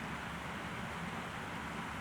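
Steady background noise with a faint low hum, without any distinct event.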